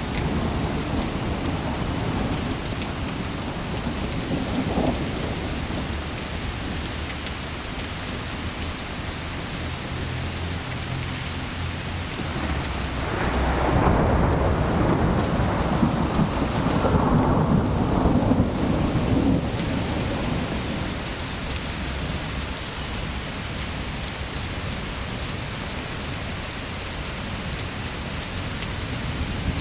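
Steady rain falling, with a long roll of thunder that swells up and rumbles for several seconds about halfway through before fading back into the rain.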